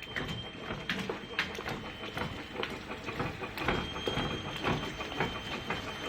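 Ice-cream-stick and spatula packaging machine running: rapid, irregular clicking and clattering over a steady mechanical noise, with a thin high whine that grows stronger about halfway through.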